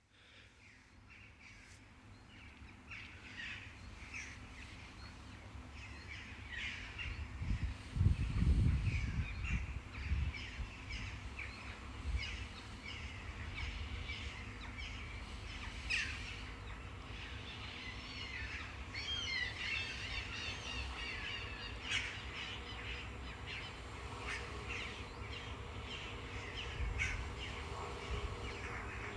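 Outdoor ambience with birds calling and chirping throughout, and a brief low rumble about eight seconds in. Near the end a faint steady hum builds.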